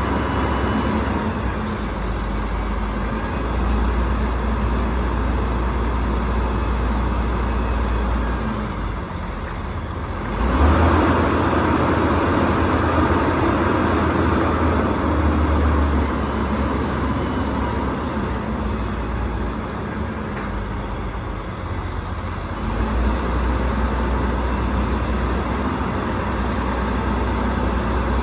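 Rooftop HVAC unit running: a steady mechanical rumble with rushing air noise, swelling louder for several seconds about ten seconds in.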